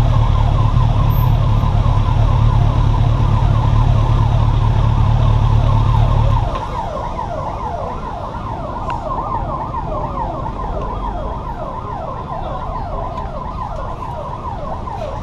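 Kawasaki Z800 inline-four idling with a steady low rumble, cut off about six and a half seconds in. Over it runs a busy mass of quick, repeated rising and falling whistling glides.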